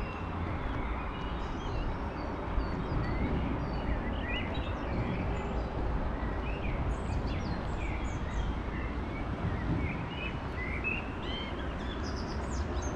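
Small birds chirping, with many short calls scattered throughout, over a steady low background noise.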